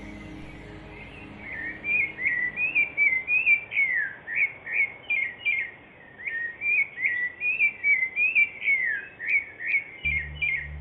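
Songbirds chirping in a dense, quick series of short sweeping notes. Soft meditation music with low held tones comes back in near the end.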